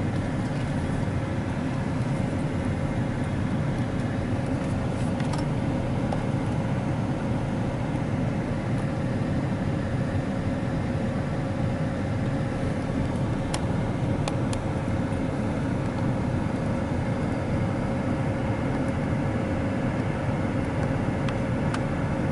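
Steady low hum of a pickup truck idling, heard from inside the cab while it waits in line, with a thin constant tone over the rumble and a few faint ticks.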